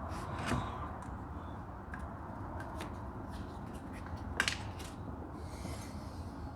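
Scattered light clicks and clinks of hand tools and small metal parts being handled during engine work, with sharper clicks about half a second in and about four and a half seconds in, and a brief rustle near the end.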